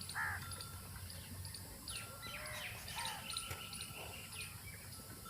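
Several birds chirping and calling over one another in short arching notes, busiest about two to four seconds in.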